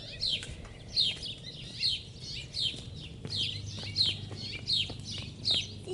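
A bird calling over and over in a steady series of high, sharp, falling chirps, about two a second.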